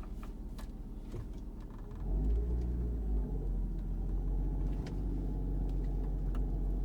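2002 Kia Sedona's V6 engine pulling the van up a slope, a low rumble that grows louder about two seconds in and then holds steady. Under it is a slight growl from the belt and pulley side of the engine, which the owner suspects comes from the power steering pump, its belt or a pulley.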